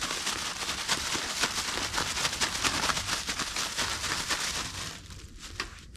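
A bag of fish pieces and flour being shaken to coat the fish, a dense rapid rustling that stops about five seconds in.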